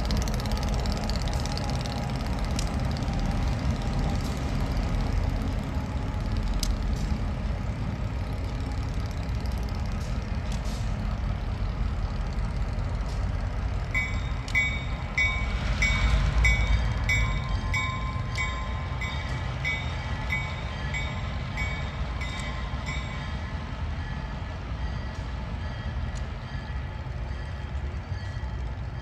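Freight train running by with a steady low rumble. About halfway through, a grade-crossing bell starts ringing at about two strokes a second and keeps on for some nine seconds before stopping.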